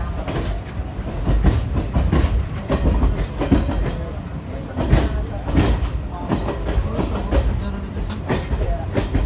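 Passenger train running, heard from inside the coach: a steady low rumble with irregular clicks and knocks from the wheels on the track.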